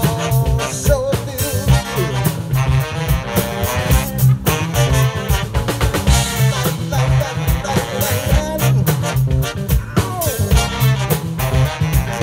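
Music from a band with a horn section: drum kit and bass keep a steady beat under horn lines, in an instrumental passage without singing.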